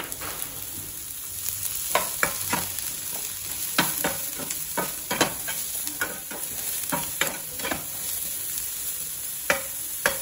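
Sliced mushrooms and onion sizzling in olive oil in a nonstick frying pan while a spatula stirs them. From about two seconds in comes a run of sharp knocks and scrapes of the spatula against the pan, with two more near the end.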